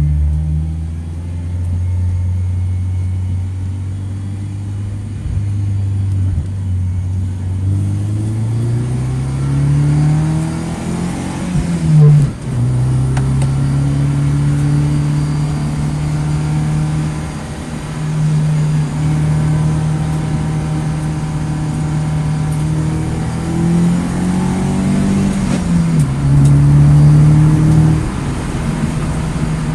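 Onboard sound of a 2009 Mini Cooper S's turbocharged 1.6-litre four-cylinder: steady at low revs at first, then climbing in pitch and dropping sharply at an upshift about twelve seconds in. It holds steady revs, climbs again and shifts once more a couple of seconds before the end.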